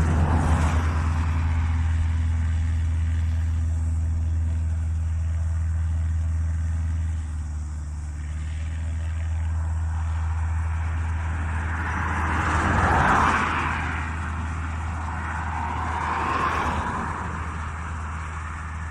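A small plane's engine running with a steady low drone, and rushing noise swelling up twice in the second half, louder the first time.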